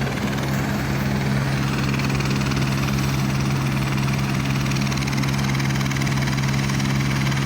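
Police helicopter running steadily: a constant low drone with an even hum that holds one pitch throughout.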